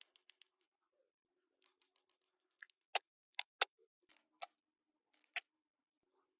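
Toy pieces being handled, making sharp clicks and taps: a few small ones, then three loud clicks in quick succession about three seconds in and two more after, over a faint steady hum.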